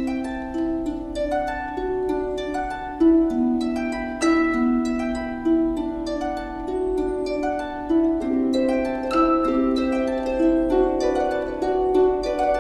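Solo harp music: a melody of plucked, ringing notes over chords.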